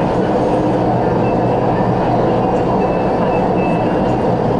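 MTR West Rail Line CRRC Changchun electric multiple-unit train running along the line: a steady rumble of wheels on rail and running gear, with a faint high tone coming and going in the middle.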